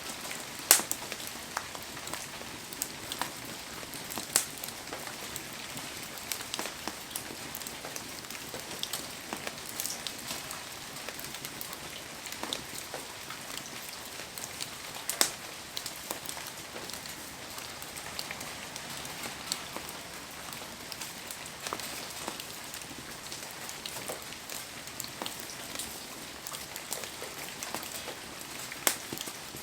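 Heavy rain falling steadily, with scattered sharp taps and pops throughout; the strongest come about a second in, about fifteen seconds in and near the end.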